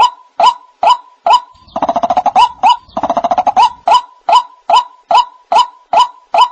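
White-breasted waterhen calling: short sharp notes repeated about twice a second, broken twice near the middle by a fast rattling chatter. This is the call used to lure waterhens.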